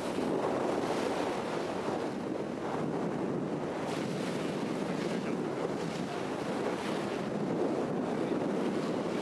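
Wind buffeting the microphone over steady sea and wave noise: an even, unbroken noise.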